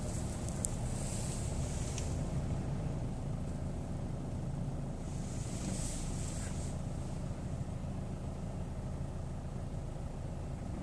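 Chevrolet Orlando engine running steadily at idle with a constant low hum, and brief hissing patches near the start and about halfway through. The owner is recording this as the engine noise he is worried about.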